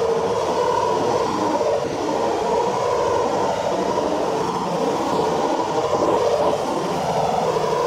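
Class 345 electric multiple-unit train running past along the platform: a steady rumble of wheels on rail and traction equipment.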